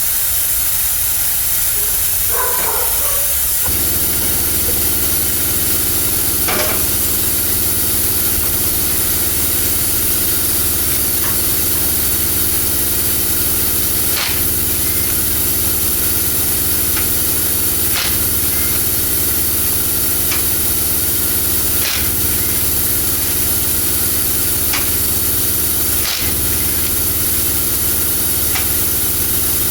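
Steady loud hiss of air or spray. About four seconds in, a steady low machine hum joins it, with a few light clicks here and there.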